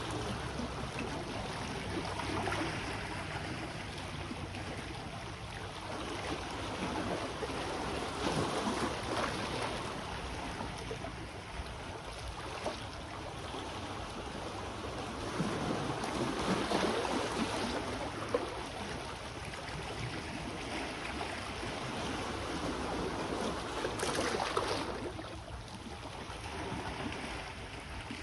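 Sea waves washing onto the shore, the wash swelling and falling back every several seconds.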